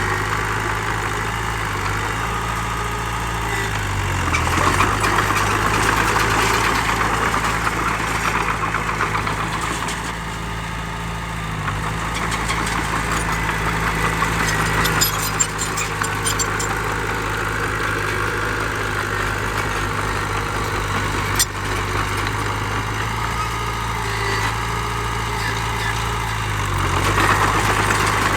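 Heavy diesel engine running at a steady speed, with stretches of louder, harsher noise a few seconds in and again near the end. There is one sharp click about 21 seconds in.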